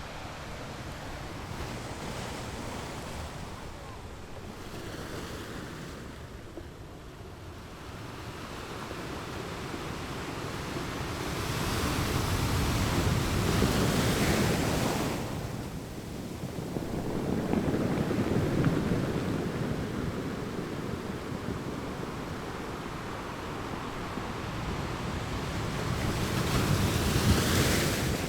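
Ocean waves breaking on rocks, the surf swelling and ebbing, with three larger waves crashing: one about halfway through, another a few seconds later and one near the end.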